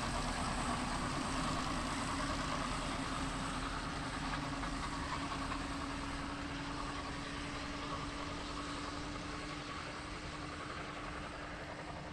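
Heritage railway train drawing away: a steady locomotive hum that rises slightly in pitch and slowly fades as the train recedes, with no distinct exhaust beats.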